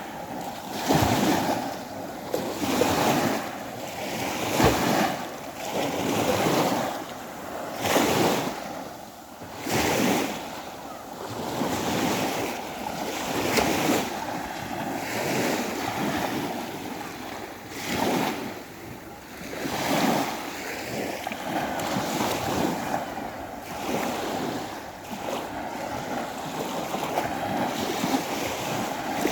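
Waves of the Sea of Azov washing in, a surge every second or two, with wind on the microphone.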